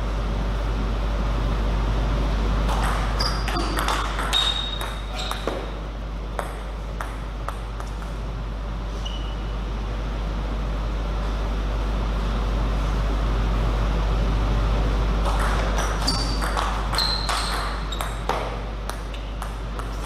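Table tennis ball clicking back and forth off paddles and table in two rallies, the first starting about three seconds in and the second near the end, each hit with a short high ring. A steady low hum runs underneath.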